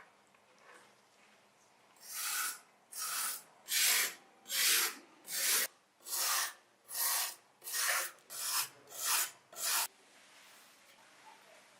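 Eleven steady hand strokes of abrasive rubbing, sanding or filing-like, on a diecast model car's metal body or parts, about one and a half strokes a second, starting about two seconds in and stopping near the end.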